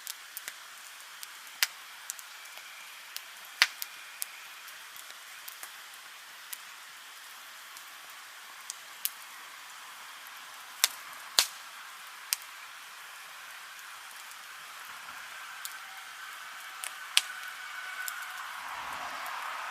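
Wood bonfire crackling: a soft steady hiss broken by irregular sharp pops, with the hiss growing louder near the end.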